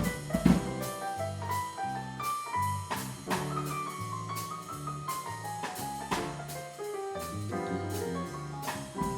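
Live small jazz combo playing a swing tune: a walking bass line under piano and a melody line, with drum kit keeping time on cymbals. There is a loud drum hit just after the start.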